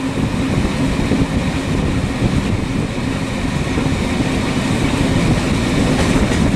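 Loud, steady rumbling noise of a large vehicle running, with a faint low hum through it, cutting off suddenly near the end.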